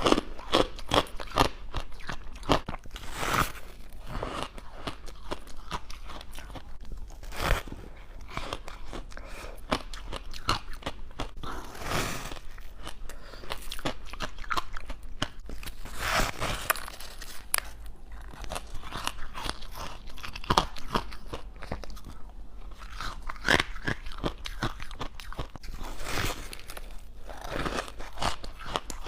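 A person biting and chewing crunchy frost ice close to the microphone: a continuous run of irregular crunches, with a few sharper, louder bites along the way.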